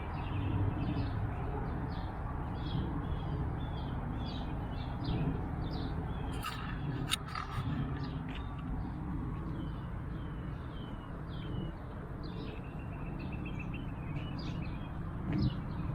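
Songbirds chirping and calling over and over, with a rapid rattling trill near the end and a few sharp clicks about halfway through, over a steady low rumble.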